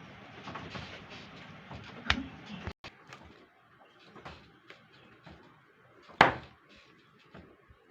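Two sharp bangs of the clay cracker game: cupped lumps of wet clay slammed onto the ground so they burst with a firecracker-like pop. A smaller one comes about two seconds in and a much louder one about six seconds in.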